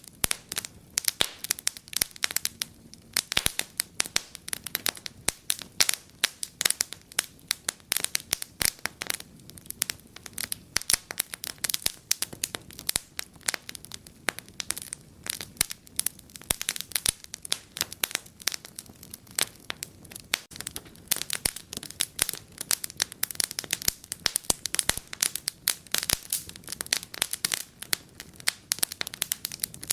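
Fire burning in a fireplace, crackling steadily with many sharp pops and snaps, several a second.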